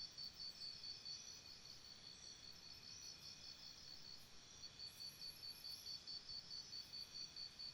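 A chirping insect in a jungle soundscape, giving high, faint, evenly spaced chirps, about four a second. The chirps fade somewhat in the middle and come back stronger near the end.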